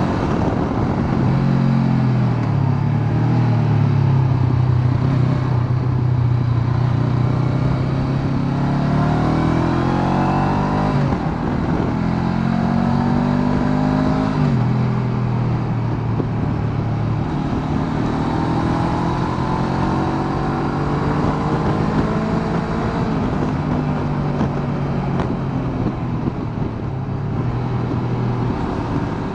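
Honda CB500X's 471 cc parallel-twin engine under way, its pitch climbing and easing with the throttle, with two sudden drops about eleven and fourteen seconds in.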